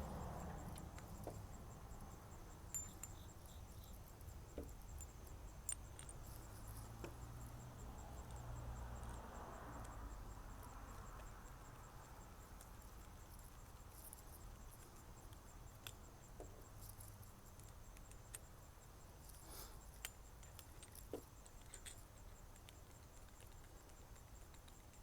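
Quiet room tone with a low steady rumble and a dozen or so faint, scattered clicks and taps.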